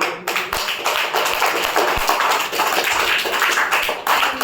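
Hands clapping in a dense, fast run of many overlapping claps.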